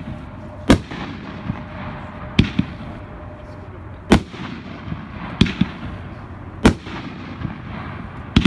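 A 'Screaming Eagles' 500-gram consumer fireworks cake firing shells that burst in about seven sharp, loud bangs, some in quick pairs, each with a short echo. The shells carry more break charge than lift charge, so they burst low with heavy reports.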